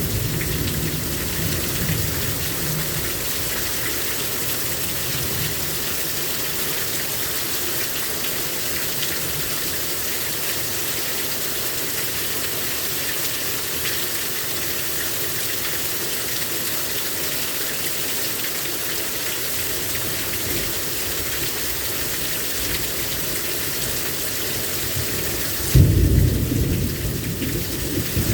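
Heavy rain pouring down steadily during a thunderstorm. A low roll of thunder fades out over the first few seconds, and a sudden loud thunderclap rumbles near the end.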